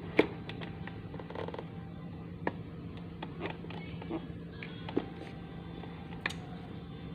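Scattered light clicks and taps, as of a small plastic neck fan and its parts being handled during repair, over a steady low hum. The sharpest click comes just after the start and another near the end.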